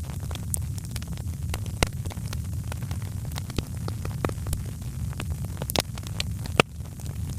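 Wood fire crackling, with irregular sharp pops and snaps over a steady low rumble of the flames; the loudest pop comes near the end.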